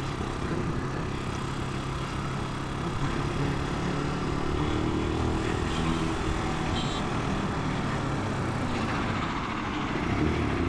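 Italika 250 motorcycle engine running steadily while riding in slow city traffic, under a constant rush of road and wind noise.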